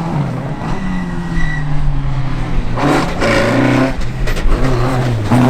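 Rally car engine revving hard through the gears, the pitch climbing and dropping several times, with a rougher, noisier stretch about three seconds in.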